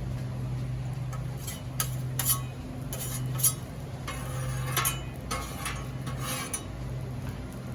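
Metal tool scraping across the steel top of a Blackstone griddle during cleaning: several short, irregular scraping strokes over a steady low hum.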